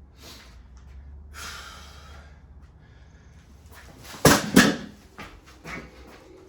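A short hiss, then two sharp knocks or bangs about a third of a second apart, followed by a few lighter clicks.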